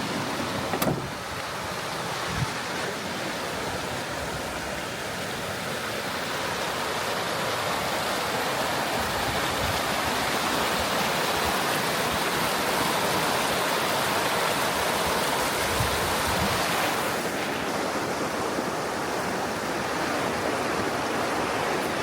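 River water rushing steadily, with one brief click about a second in.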